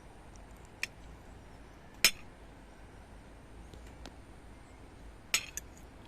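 A few sharp clinks of a metal utensil against dishware: a light tap near the start, the loudest clink about two seconds in, and a quick double clink near the end.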